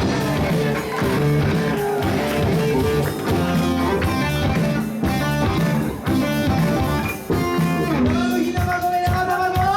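A live band playing a song, with electric guitar to the fore; a long held note comes in near the end.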